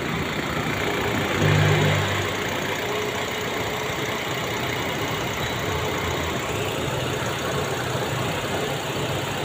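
Nissan Almera's four-cylinder petrol engine idling steadily, with a new number-1 ignition coil and new spark plugs fitted to cure a misfire and low power.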